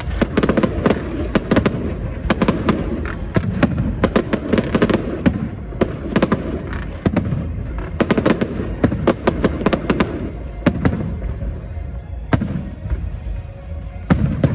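Aerial fireworks going off in rapid volleys of sharp bangs and crackles, in clusters with short lulls between them, over music.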